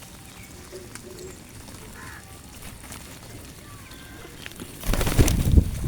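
Pigeons cooing softly among other faint bird calls. Near the end comes a loud, rough burst of noise about a second long.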